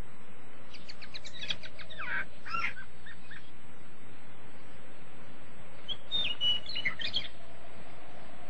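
Birds chirping in two short bouts of quick, high calls, the first about a second in and the second around six seconds in, over a steady background hiss.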